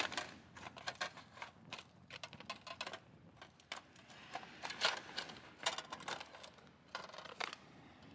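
Irregular clicking and clattering of small hard objects being handled, in uneven clusters with short pauses between them.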